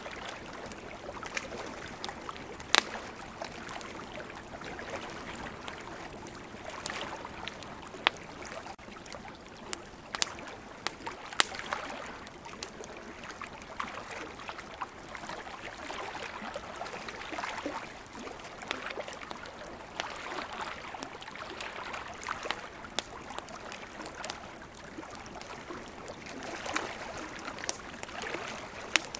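Campfire crackling, with sharp irregular pops and snaps from the burning wood, over a steady wash of ocean surf that swells and eases.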